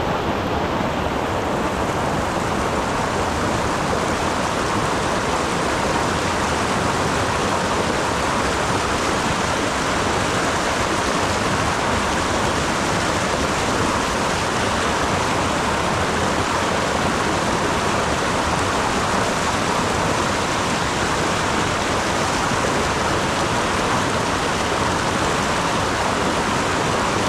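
Rushing mountain stream water, a steady, unbroken rush.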